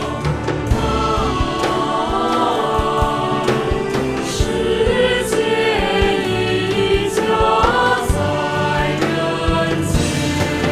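Choir singing a long held phrase over accompanying music with a steady drum beat.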